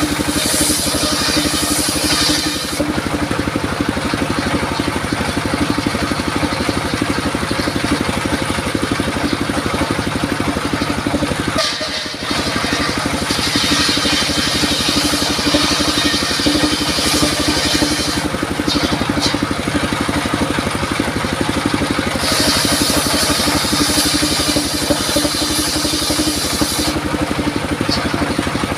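Engine-driven circular saw running steadily, its blade cutting through durian wood three times with a hissing rasp lasting several seconds each, the engine hum continuing between cuts.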